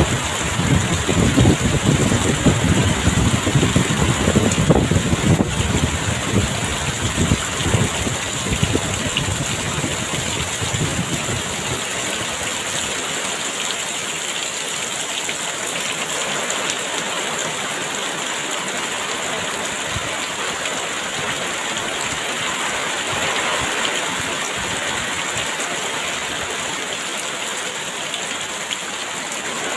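Very heavy rain pouring steadily, with gusts of wind rumbling low through roughly the first ten seconds before it settles to an even downpour.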